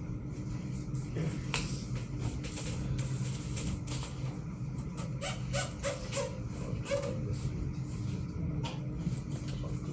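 Steady low hum under scattered light clicks and rustles of materials being handled, with a few short faint voice-like sounds about five to seven seconds in.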